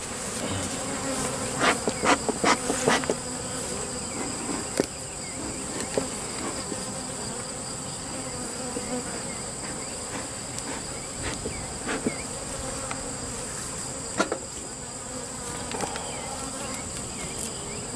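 Honey bees buzzing around an opened hive, a steady hum. Scattered sharp clicks and knocks come through it, several close together in the first few seconds.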